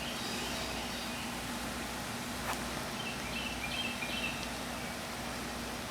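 Outdoor ambience: a steady soft hiss of rain and wind, with small birds chirping in short runs of notes near the start and again about three to four seconds in. A faint steady low hum and a single tick about two and a half seconds in.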